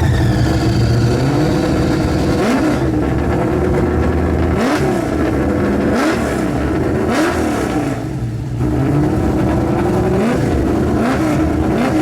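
Drag-race car engine rumbling at idle and being blipped: about half a dozen short revs, each rising and falling in pitch.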